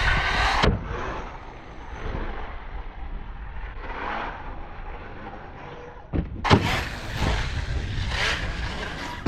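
Electric RC stunt truck (Arrma Outcast 6S EXB with a Hobbywing Max8 brushless motor) driving hard for about half a second, then much quieter for several seconds. It lands with a sharp impact about six and a half seconds in, and its motor and tyres run on afterwards.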